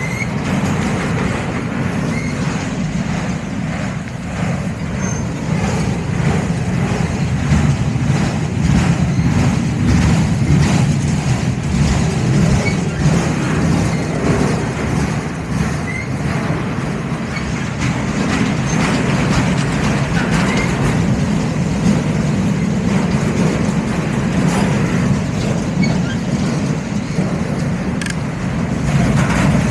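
Freight train rolling past: a steady low rumble from the cars, with a running series of clicks from the wheels passing over the rail joints.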